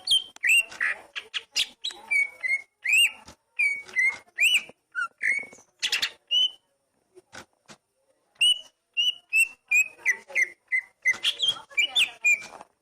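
Oriental magpie-robin (kacer) singing: a rapid run of short whistled notes, many slurred up or down, mixed with sharp clicking notes. A sparser stretch of a couple of seconds falls in the middle.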